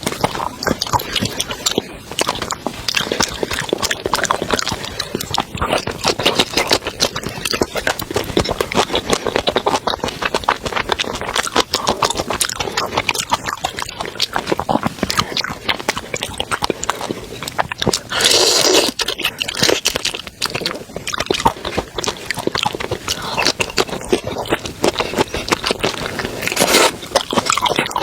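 Close-up eating sounds of a person chewing seafood: dense, rapid wet clicks and crunches, with louder bursts about two-thirds of the way through and again near the end.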